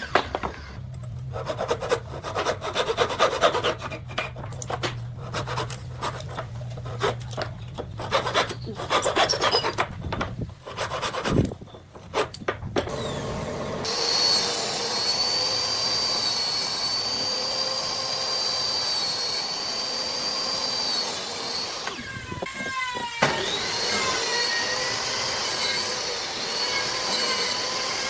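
Wood being worked in quick, irregular rasping strokes, like sawing or filing, for about thirteen seconds. Then a power tool runs with a steady high whine that dips briefly and picks up again near the end.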